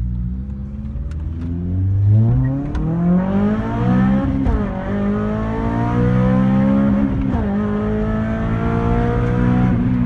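Honda Civic Type R engine with a 63 mm exhaust, branch manifold and induction kit accelerating hard, climbing in pitch. Two quick gear changes come about four and a half and seven and a half seconds in.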